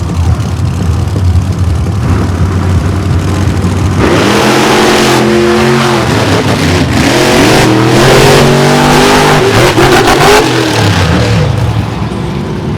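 Monster truck engine running low at first, then from about four seconds in revving hard and much louder, its pitch climbing and dropping again and again, before easing back near the end.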